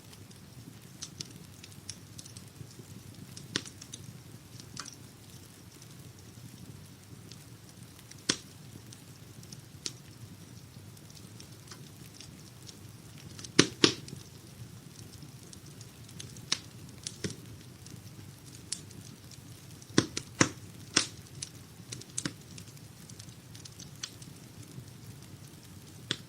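Wood-burning fireplace crackling: a steady low rush of burning with scattered sharp pops and snaps, the loudest a quick pair about halfway through and a cluster of several a few seconds later.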